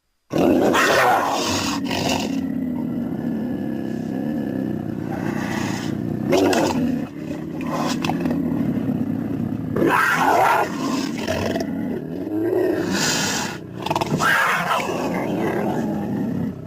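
Creature sound effects for Theriognathus: a long low growl that starts a moment in and runs about seven seconds, followed by a string of shorter roars and snarls starting about six, ten, thirteen and fourteen seconds in.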